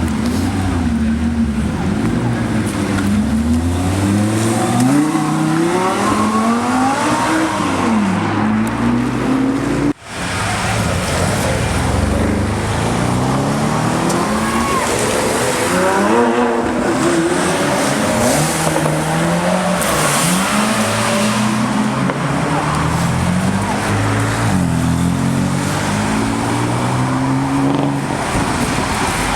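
Supercar engines accelerating hard. The pitch climbs and drops back again and again as the cars shift up through the gears, with a brief break about ten seconds in.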